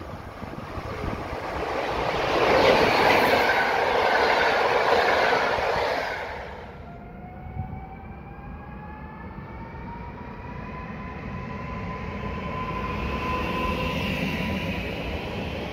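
An electric locomotive-hauled train passing close by, its rumble and rail noise peaking a few seconds in. Then an electric multiple unit running along the platform, its motors giving a whine of several tones that rises in pitch and then holds steady.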